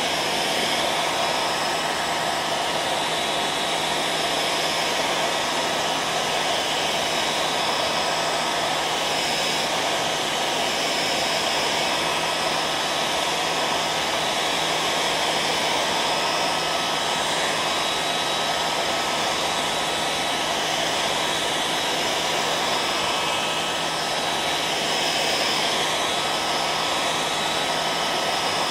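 Hairdryer running steadily on one setting: a constant rushing blow of air with a steady motor whine through it.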